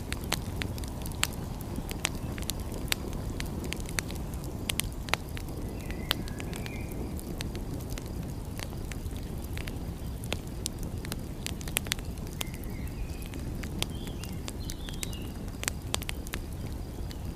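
Wood fire crackling, with irregular sharp pops and snaps over a steady low rush. A few faint, short high chirps come about six seconds in and again between twelve and fifteen seconds.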